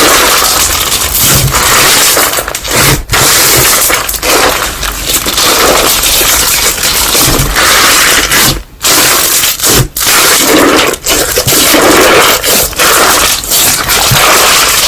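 Slime being squeezed and pressed by hand: a dense, continuous crackling and squishing, broken by a few short pauses.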